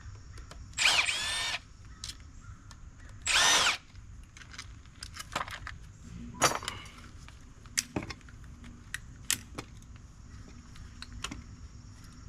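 Power drill run in two short bursts about two seconds apart, its pitch rising and falling within each, while an appliance is taken apart for scrap. Scattered clicks and knocks of parts being handled follow.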